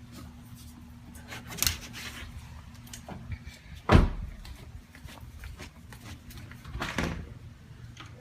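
A few knocks and thuds indoors, three of them standing out, the loudest about four seconds in, over a faint steady hum.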